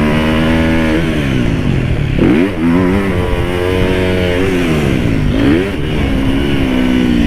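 Dirt bike engine revving up and down: its pitch sinks, then climbs sharply twice, about two and a half and five and a half seconds in, before holding steady.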